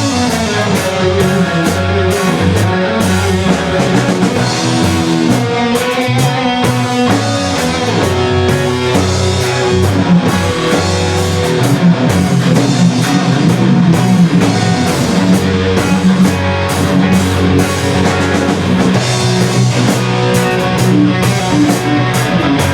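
Rock band playing an instrumental passage: electric guitar over bass and a drum kit, with no singing.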